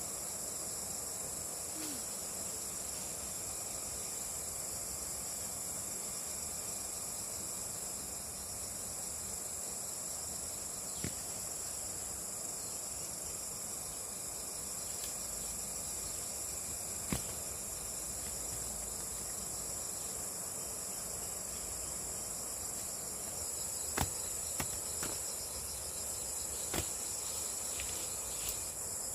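A steady, high-pitched insect chorus that runs on without a break, with a few short sharp clicks or knocks scattered through the second half.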